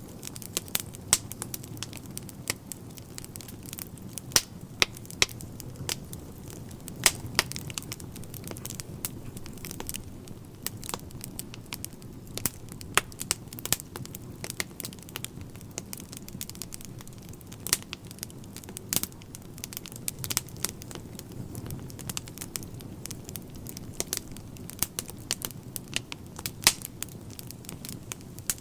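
Wood fire burning in a fireplace: a steady low rumble of flames with frequent irregular sharp crackles and pops of burning logs.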